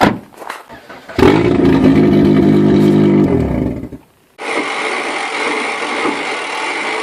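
Volvo V40 engine held at high revs for about three seconds, steady in pitch, then easing off. After a short gap, a different steady hissing mechanical noise.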